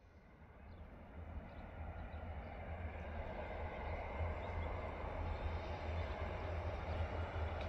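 Distant train approaching, a low rumble that grows steadily louder.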